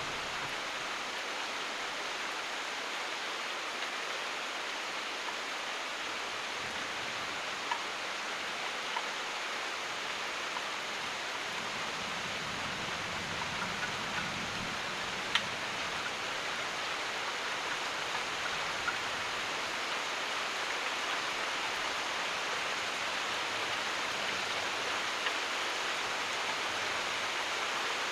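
Steady rain falling, an even hiss, with a few sharp ticks of single drops scattered through it.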